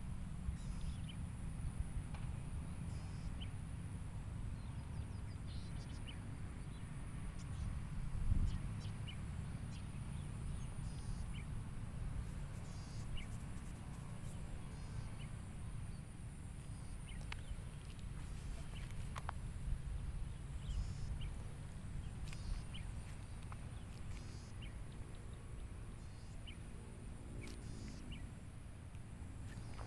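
Lakeside nature ambience: a steady low rumble with scattered short bird chirps and a constant high hiss.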